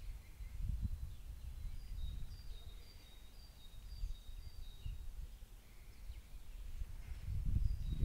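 A small bird sings a phrase of short high notes alternating between two pitches, repeated several times, over an uneven low rumble on the microphone.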